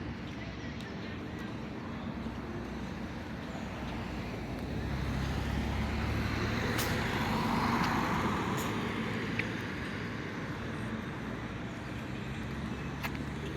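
A motor vehicle passing by over steady traffic noise: its engine and tyre noise swell from about a third of the way in, peak a little past the middle, then fade.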